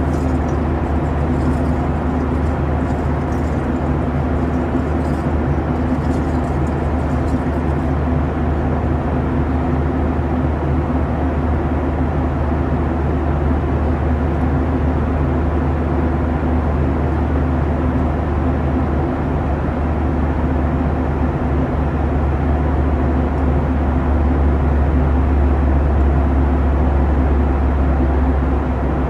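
Boeing 737-900ER in flight: a steady drone of its CFM56 engines and rushing airflow, with a low rumble that swells for a while in the second half.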